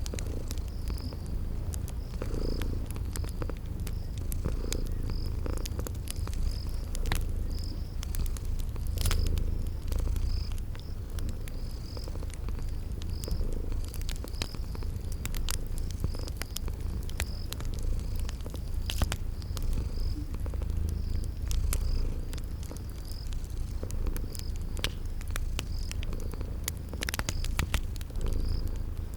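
Cat purring steadily, with wood fire crackling in scattered sharp pops and a cricket chirping about once a second.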